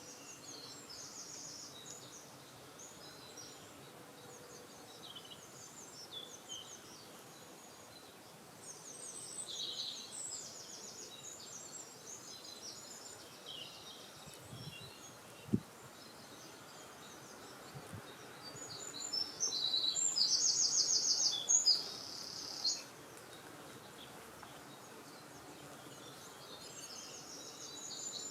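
Wild songbirds singing in short, rapid high trills and chirps, one after another, with the loudest trilled phrases about two-thirds of the way through, over a faint steady background hiss. A single brief tap sounds about halfway through.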